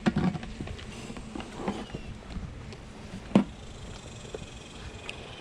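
Scattered light taps and knocks, with one sharp louder knock about three and a half seconds in.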